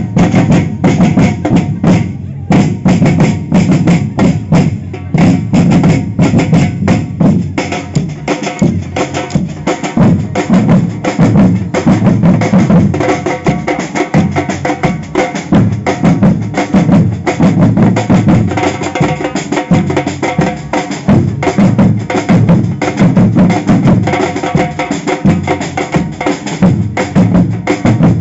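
Samba percussion band drumming a loud, dense, driving rhythm, with deep bass drums and snare strikes.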